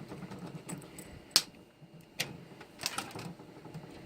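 Sharp clicks and clacks of computer hardware being handled. The loudest comes about a second and a half in, with a few more over the next two seconds.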